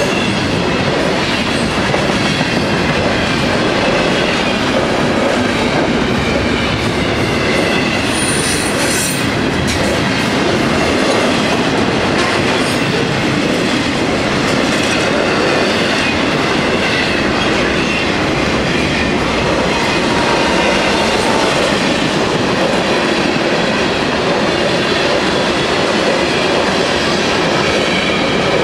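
Florida East Coast Railway freight cars rolling steadily past close by: container flatcars and covered hoppers clattering over the rails, with a faint wavering squeal from the wheels.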